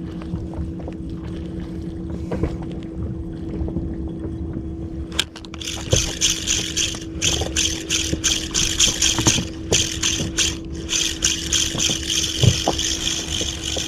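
A steady low hum, then from about five seconds in a fishing reel whirring in quick repeated spurts, as when it is cranked fast while jigging.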